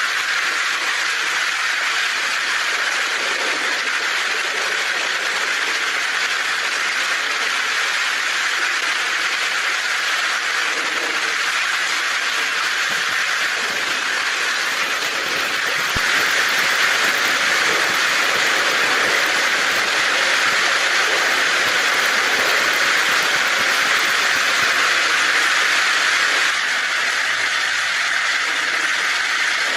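Heavy rain drumming on a tin roof, a steady dense hiss. It grows louder about halfway through and drops back a few seconds before the end.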